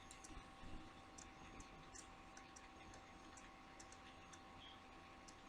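Near silence: room tone with a faint steady hum and scattered faint small clicks, with one soft knock under a second in.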